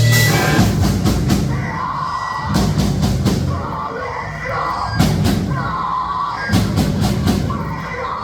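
Live rock band playing loud, with sharp drum and cymbal hits over a heavy low bass.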